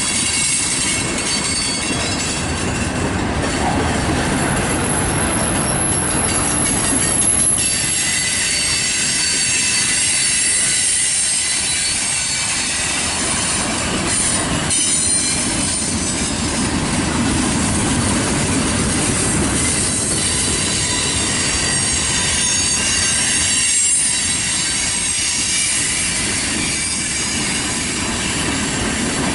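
Freight cars (tank cars, an autorack and a boxcar) rolling past at close range: a steady loud rumble of steel wheels on rail with thin, high wheel squeal over it.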